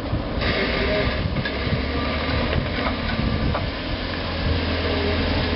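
Off-road 4x4's engine running at low revs while it backs up over rock, with a steady low hum that grows stronger near the end and a few light clicks along the way.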